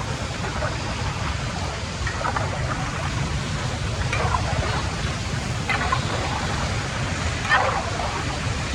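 Floodwater rushing steadily into a storm drain, with a low rumble under it and a few faint, short sounds rising over it now and then.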